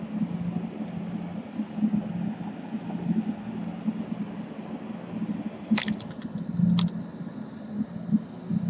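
A small electric fan or blower running with a steady low hum, and a few sharp metallic clicks a little after the middle as tools touch the work.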